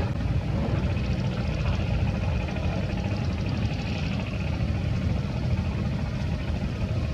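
Heavy construction machinery's diesel engine running steadily at a low pitch.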